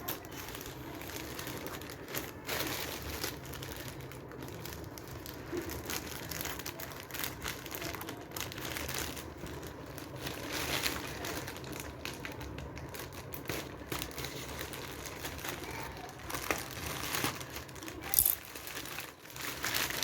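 Packaging wrapper on a boxed marker set crinkling and rustling as it is handled and pulled off, with a louder crackle near the end.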